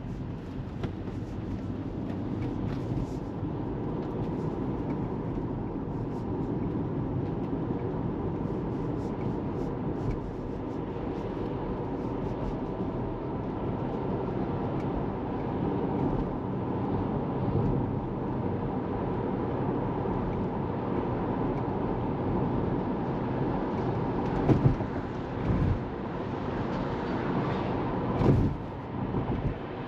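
Steady road and tyre rumble of a Tesla Model 3 driving, with no engine sound since the car is electric. A few short, louder knocks come near the end.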